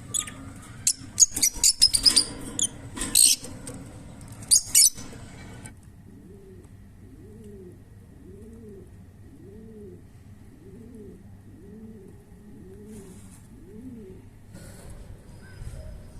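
Lovebirds giving shrill, high-pitched chirps and squeaks for the first five seconds or so, then a pigeon cooing: a run of about eight low, rounded notes roughly one a second. A few faint chirps return near the end.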